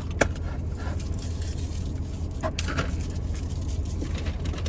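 Steady low hum of a car's engine idling, heard inside the cabin, with a few sharp clicks.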